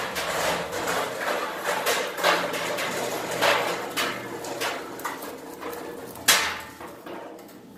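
Bags of stored belongings being pulled out and handled: a run of rustling and scraping with many small knocks, and one sharp knock about six seconds in.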